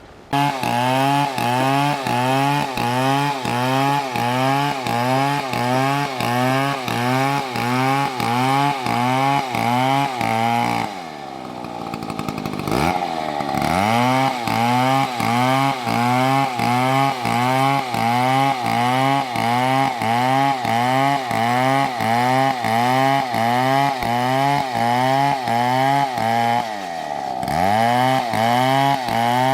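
Chainsaw cutting into a tree, starting abruptly. Its engine pitch dips and recovers in a regular rhythm about one and a half times a second as the saw is worked in the cut. Twice, around the middle and near the end, the engine slows deeply and then revs back up.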